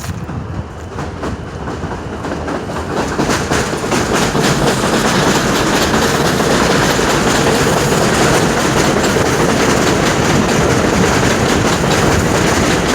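Elevated subway train passing close by: rumble and wheel clatter build over the first few seconds, then hold steady and loud.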